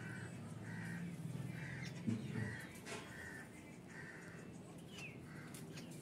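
A bird calling over and over in short, evenly spaced calls, roughly one every three-quarters of a second. A low rumble runs under the first half, with a thump about two seconds in.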